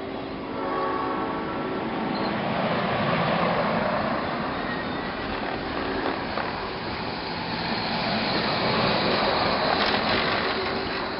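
Train passing with its locomotive horn sounding: a chord blast in the first few seconds, then the steady running noise of the train going by.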